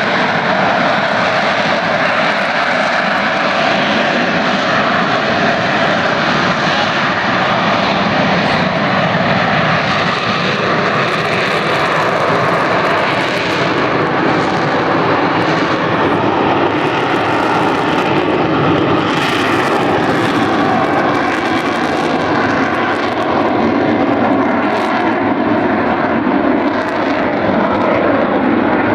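AV-8B Harrier's Rolls-Royce Pegasus turbofan jet engine running loud and steady at high thrust, a continuous roar with a faint steady whine over it.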